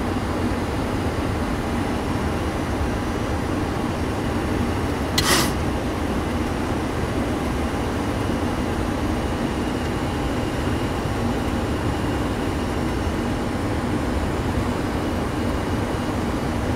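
Steady flight-deck noise of a Boeing 737-600 on final approach: a constant rush of airflow and air conditioning over a low engine hum. A brief sharp hiss or click about five seconds in.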